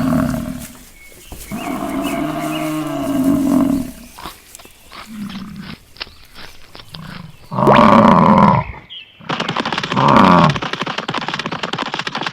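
Cattle mooing: a series of long calls one after another, the loudest about eight and ten seconds in.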